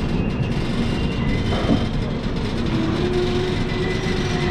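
Passenger train coach rolling slowly along a station platform, heard at an open doorway: a steady rumble of wheels on the track.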